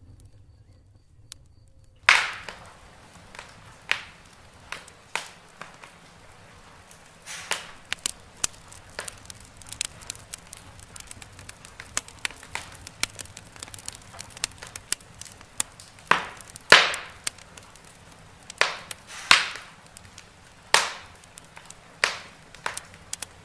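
Wood fire in a fireplace crackling, with irregular sharp pops, a few of them loud. After a quiet low hum, the crackling starts abruptly about two seconds in.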